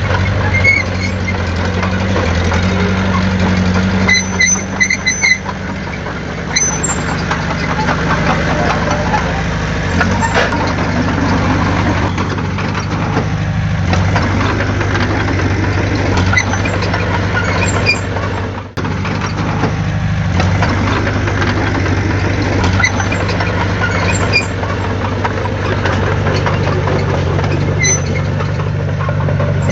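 Heavy diesel earthmoving machinery running steadily, with a few short high squeaks about four seconds in.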